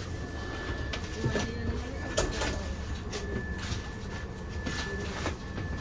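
Inside a passenger train coach's vestibule: the steady low rumble of the coach, with scattered knocks and clicks and a thin steady high whine that fades in and out.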